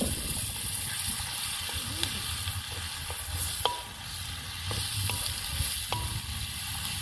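Sliced tomatoes and onions sizzling steadily in hot coconut oil in a large metal pan, stirred with a wooden spoon that gives a few light knocks against the pan.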